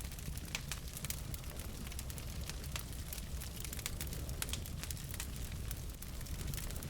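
Wood fire in a fireplace crackling: irregular sharp pops and snaps over a low steady rumble of the burning logs.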